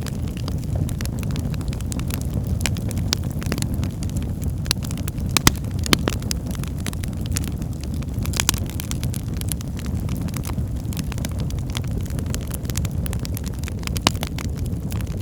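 Fire burning in a fireplace: a steady low rumble of flame with frequent sharp crackles and pops, two louder pops about halfway through.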